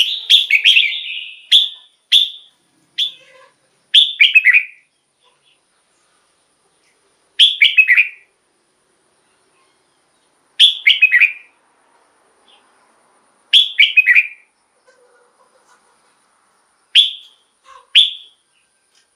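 Red-whiskered bulbul singing short, bright whistled phrases: several in quick succession at first, then one every three seconds or so with silent gaps between.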